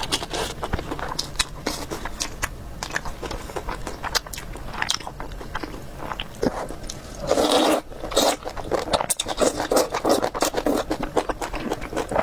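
Eating sounds from a mukbang: chewing and wet mouth clicks and smacks from a mouthful of food, with a louder, noisier stretch about seven seconds in.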